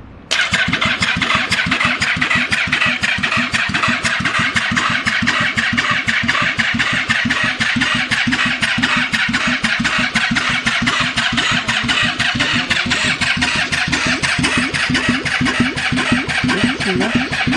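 Yamaha V-Max V4 engine turned over by its starter motor, wired directly with no carburettors fitted, so it cranks in a fast steady chug and never fires. It starts abruptly about a third of a second in. The engine's compression is very uneven: 1200, 500, 1100 and 150 kPa across the four cylinders.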